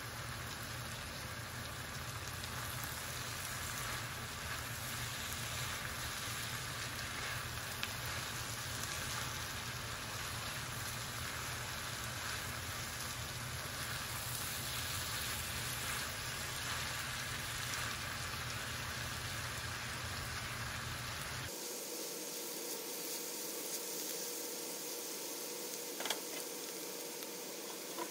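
Mixed vegetables sizzling steadily as they fry in an enameled skillet. About three quarters of the way through the sound changes abruptly, the low rumble dropping away, and there is one sharp click near the end.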